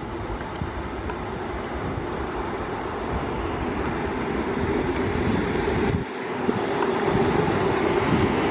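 A train running close by: a steady, dense rumble and rail noise. The low rumble cuts out suddenly about six seconds in, then the sound builds back up and grows louder toward the end.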